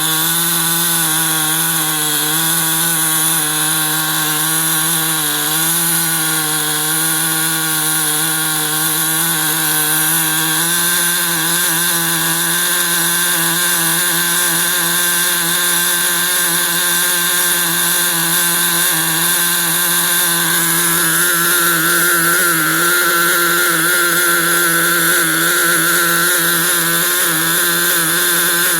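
Small two-stroke glow (nitro) model engine running steadily on a made-to-measure piston, its pitch wavering slightly. A higher whine grows stronger about two-thirds of the way through.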